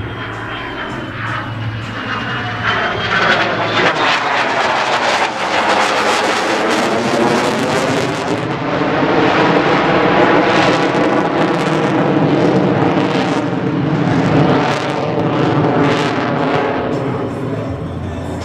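F-22 Raptor's twin F119 turbofan engines running loud as the fighter flies past. The jet noise builds, is loudest around the middle, and eases toward the end, with a crackling edge throughout.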